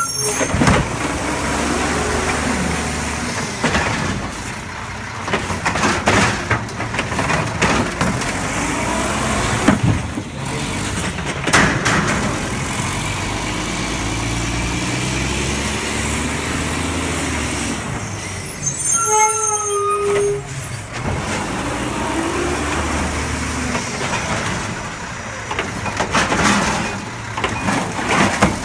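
Garbage truck running, its engine rising and falling in speed, with a few sharp metal clanks. An air-brake hiss with a brief brake squeal comes near the start and again about two-thirds of the way through.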